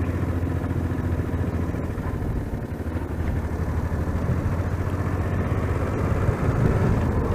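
Motorcycle engine running steadily as a low hum, heard through a cheap microphone fitted inside the rider's helmet.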